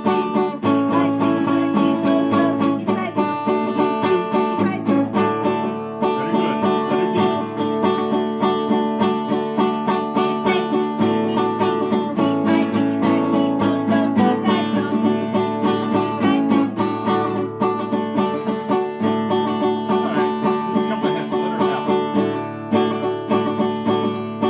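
Banjo-led string-band music: a fast, even stream of picked banjo notes over low sustained bass notes that change every few seconds.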